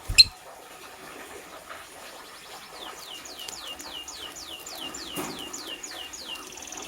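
A sharp click at the start, then a lovebird chirping: a quick run of about fourteen high notes, each falling in pitch, about three a second. A steady high note follows near the end.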